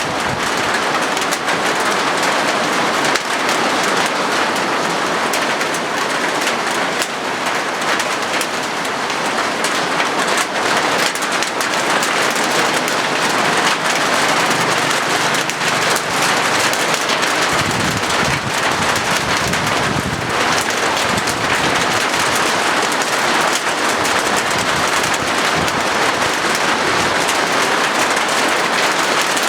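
Rain falling on a corrugated zinc roof: a steady, dense hiss of drops. A low rumble joins for a few seconds past the middle.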